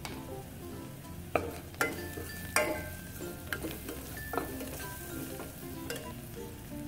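Onions with turmeric and asafoetida sizzling in hot oil in a stainless steel saucepan while a spatula stirs them, with a few sharp knocks of the spatula against the pan between about one and four and a half seconds in.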